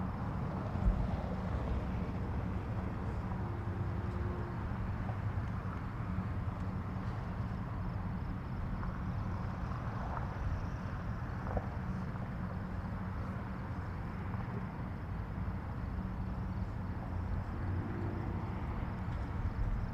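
Steady low outdoor rumble of field-recorded ambience, with a single short thump about a second in.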